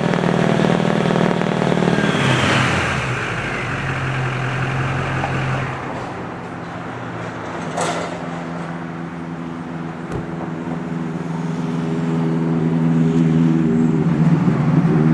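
Foam truck engine held at high revs, then dropping back to a lower, steady run about two seconds in. A sharp click sounds about eight seconds in.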